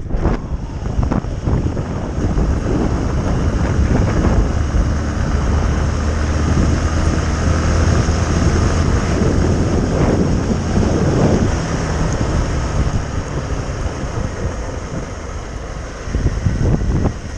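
Wind buffeting the microphone over the running engine of a Honda CBF125 motorcycle, a 125 cc single-cylinder, with a steady low hum through the middle of the stretch.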